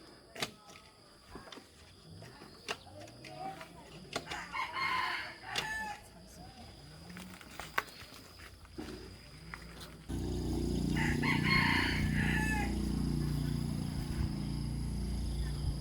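A rooster crowing twice, once about four seconds in and again about eleven seconds in, over scattered clicks and knocks. About ten seconds in a steady low rumble starts suddenly and becomes the loudest sound.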